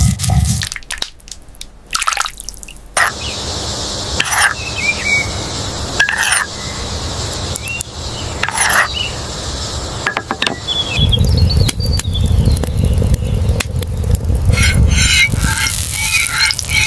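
Outdoor water ambience, a steady hiss of water noise with scattered short bird chirps. From about eleven seconds in a louder low rumble joins it, and the bird chirps thicken near the end.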